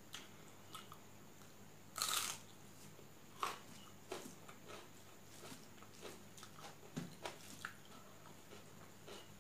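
Close-up eating sounds: chewing with small crunches and clicks at irregular intervals, the loudest a crackling crunch about two seconds in.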